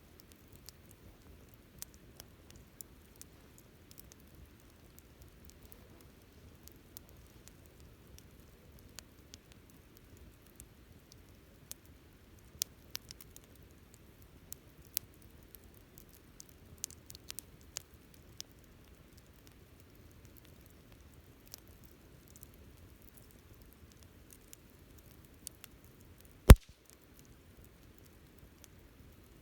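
Wood campfire crackling: scattered small snaps over a low, steady rumble of burning, with one loud sharp pop near the end.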